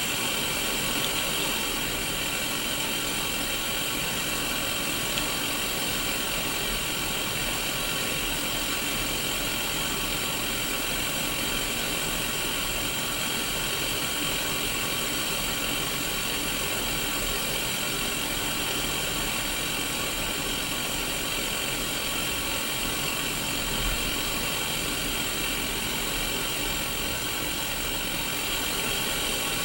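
Untuned static from a Sony Mega Watchman miniature black-and-white CRT TV: a steady hiss, strongest in the upper middle, with a faint buzz running through it.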